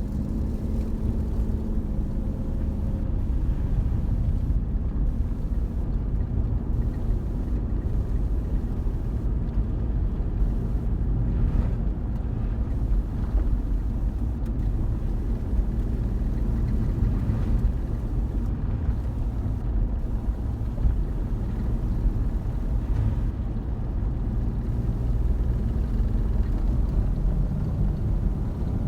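2006 Jeep Commander's 3.7-litre V6 running with a steady low rumble, the rumbling noise the owner is asking about.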